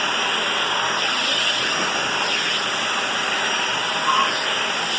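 Vacuum cleaner running steadily, a constant noisy rush with thin high motor tones above it and a brief small swell about four seconds in.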